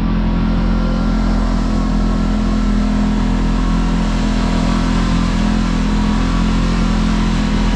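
Kawasaki KRX side-by-side's parallel-twin engine running at a steady speed under way, a constant drone with no marked revving.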